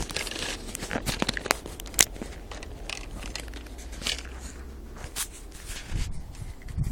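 Fresh snow crunching and crackling in irregular sharp crunches, the sharpest about two seconds in.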